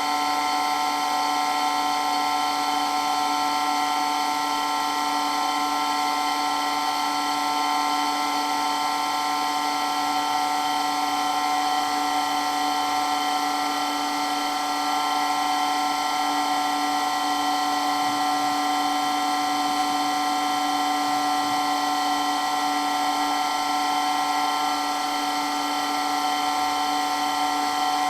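Water pump running steadily with a constant, very loud mechanical whine made up of several steady pitches.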